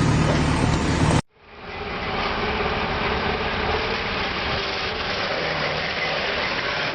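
A vehicle engine running steadily. It comes in just after a sudden cut about a second in, which ends a louder stretch with a low steady hum.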